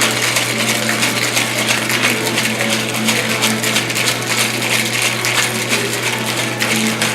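Cocktail shaker full of ice shaken hard and without a break, the ice rattling rhythmically against the tin. This is the wet shake of an egg-white cocktail after the dry shake, kept up longer because of the egg white.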